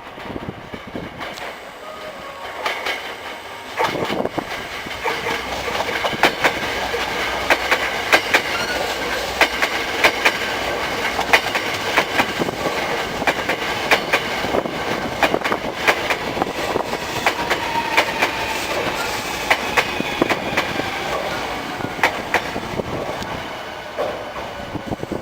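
Hankyu 1300 series electric train with Toyo Denki VVVF inverter drive arriving at a station: wheels clack over rail joints as it comes in, with a high inverter whine that falls in pitch as the train brakes toward a stop.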